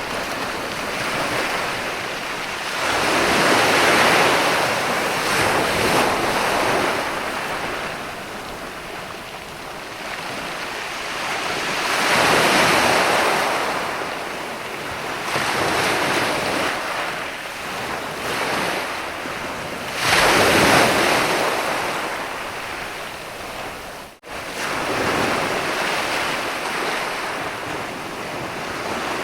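Ocean waves breaking on a sandy beach: a continuous surf wash that swells and ebbs, with bigger breakers about every eight seconds. The sound drops out for a split second about three-quarters of the way through.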